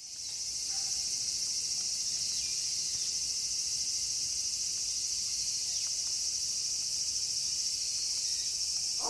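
Steady high-pitched chorus of night insects such as crickets, fading in over the first second, with two faint short falling calls.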